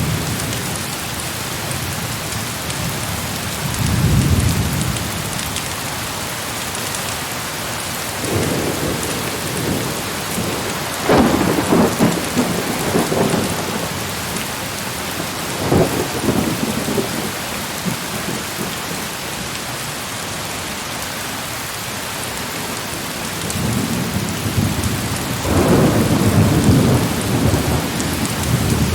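Heavy rain pouring steadily, with thunder rumbling in several rolls; the loudest peals come near the middle and near the end.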